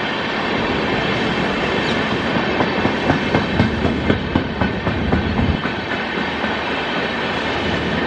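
Train passing at speed, its wheels clattering over the rail joints in a quick run of clicks through the middle, over a steady rolling rumble.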